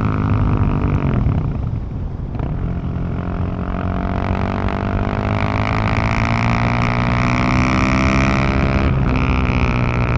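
Husqvarna 701's single-cylinder four-stroke engine heard at the exhaust while riding. Its note falls as the throttle is rolled off, then climbs steadily through a long pull, and breaks briefly near the end at a gear change before rising again.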